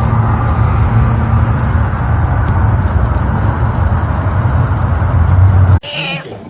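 A steady, loud low rumble with a noisy hiss above it, like vehicle or wind noise on the microphone. It cuts off suddenly near the end and a short pitched animal cry begins.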